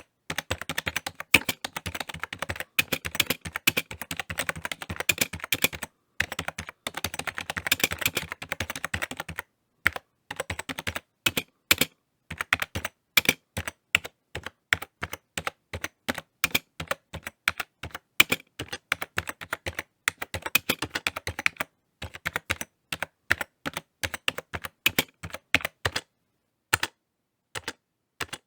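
Typing on a computer keyboard: quick runs of key clicks, broken by short pauses. The typing thins to separate, spaced keystrokes after about nine seconds, with a pause of about a second and a half near the end.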